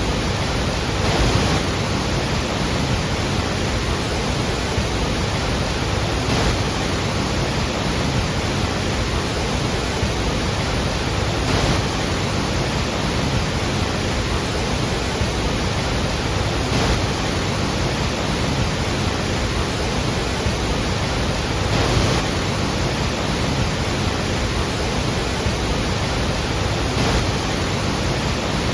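Roar of the Iguazu Falls, a heavy waterfall: a steady, dense rush of falling water, with a faint swell about every five seconds.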